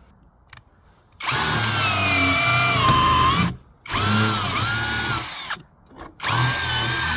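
Power drill driving screws into wood, run in three bursts of about two seconds each. The motor whine sags in pitch as each screw takes load.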